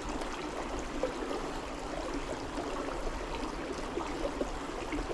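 River water flowing over rocks: a steady rushing and trickling.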